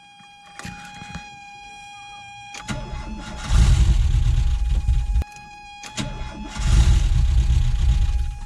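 1985 Volkswagen Vanagon's rebuilt 1.9 WaterBoxer flat-four being cranked by the starter in two tries of about two seconds each. It nearly fires but does not keep running: a first-start attempt after the rebuild.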